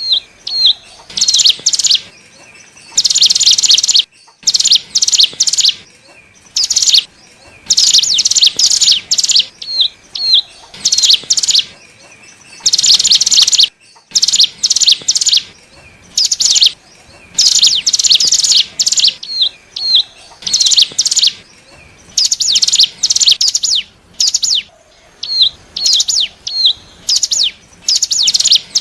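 Ciblek gunung (cigun) singing loud, rapid, high chattering phrases over and over, with short hooked single notes between them: a bird-lure recording for attracting wild cigun.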